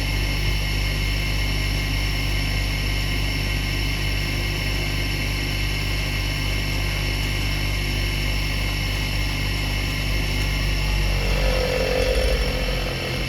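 Angle grinder running steadily at speed with a high whine; near the end the sound changes and briefly gets louder.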